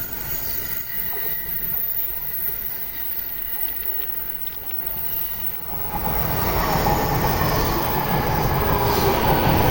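Train approaching on the rails, the running noise steady at first, then growing louder from about six seconds in, with a squealing hiss from the wheels. It cuts off suddenly at the very end.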